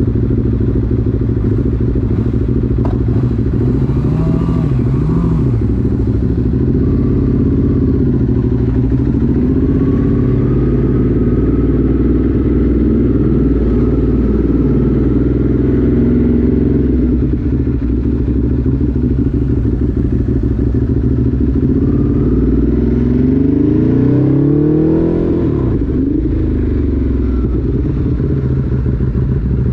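Motorcycle engine heard from the rider's seat, its pitch rising and falling repeatedly as the bike accelerates and backs off, with the strongest rise a little before the end, over a steady low rumble.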